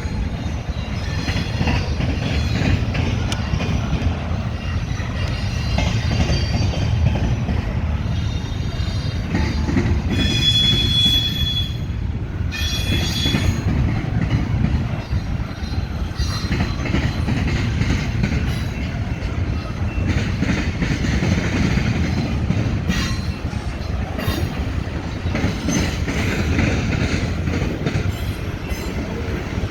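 CSX double-stack container train rolling past on a curve: a steady rumble of wheels on rail, with a high wheel squeal about ten to twelve seconds in and a few sharp wheel clicks later on.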